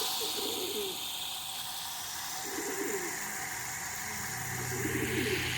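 Domestic pigeons cooing in a loft, several low warbling coos in turn. A steady low hum joins in about halfway through.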